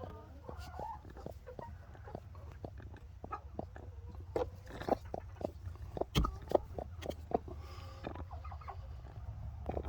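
A hen making short, scattered clucks over a low steady hum, protesting as a hand reaches under her for her eggs in the nesting box.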